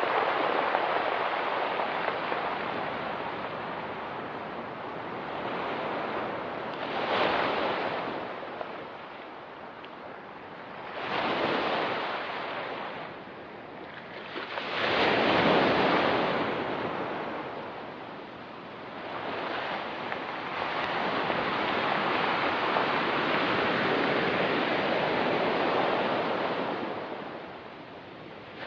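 Ocean waves breaking and washing up a rocky beach, each surge swelling and ebbing every few seconds, with a longer wash near the end.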